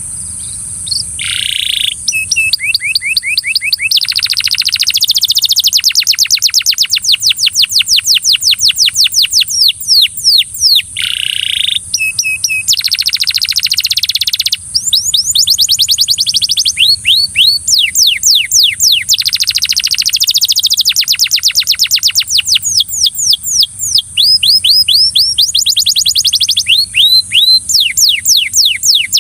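Domestic canary singing: a long, loud song of rapid rolling trills, each a fast run of repeated high sweeping notes, changing from one trill to the next with brief breaks.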